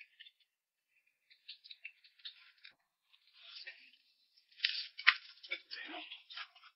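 Slurping and chewing of hot and sour noodles (suan la fen) at close range, in irregular spurts that grow busier and louder in the second half, with a few sharp wet clicks about five seconds in.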